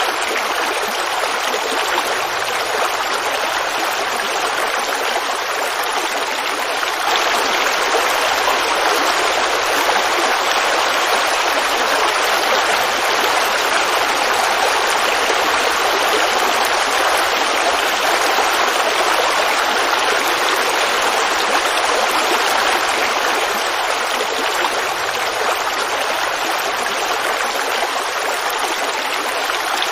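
Forest creek babbling over rocks: a steady rush of running water that grows a little louder about seven seconds in.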